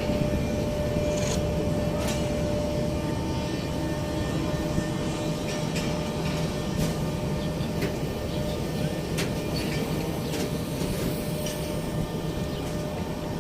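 Passenger train rumbling as it pulls slowly out of the station, with a steady low running noise and scattered sharp clicks from the wheels over the rail joints.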